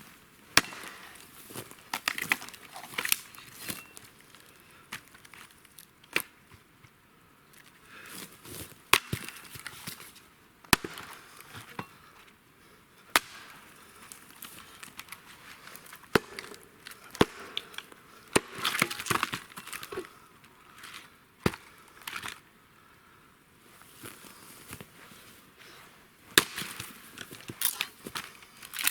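Dry wood being broken up by hand: irregular sharp cracks and knocks, a second or two apart, with rustling between.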